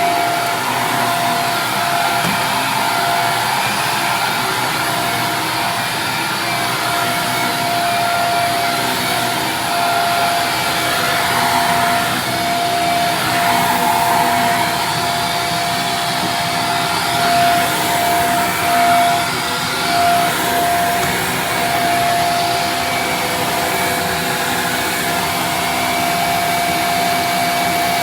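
Vacuum cleaner running steadily, its motor giving a high constant whine over a rushing hiss. The loudness swells briefly a few times about two-thirds of the way through.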